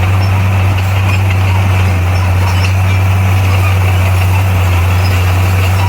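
Komatsu bulldozer's diesel engine running steadily, a deep, constant drone that holds without change.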